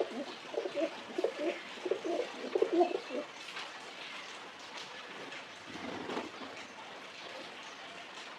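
Pigeons cooing: a quick run of low coos through the first three seconds, then a shorter one about six seconds in.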